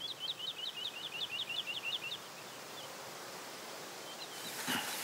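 A songbird singing a rapid trill of repeated notes, about six a second, drifting slightly lower in pitch and ending about two seconds in. Faint open-air ambience follows.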